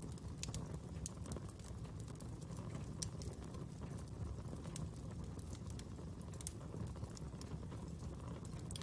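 Wood fire burning: irregular crackles and small pops over a steady low rumble of the flames.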